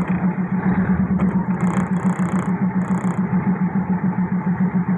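Diesel railcar running along the track: a steady low engine drone that pulses several times a second, over rolling noise, with brief high hissing about one and a half to three seconds in.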